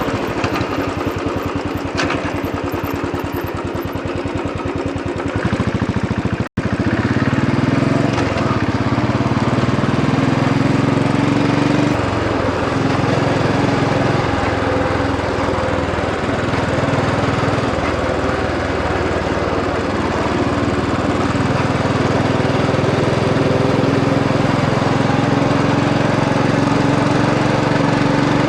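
Royal Enfield Bullet 500 EFI's air-cooled single-cylinder engine running at low revs, with closely spaced firing pulses. After a brief break at about six seconds it runs under way, its pitch rising and falling as the speed changes.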